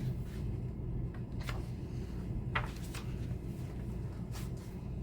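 Steady low room hum with three faint, brief clicks or rustles spread through it.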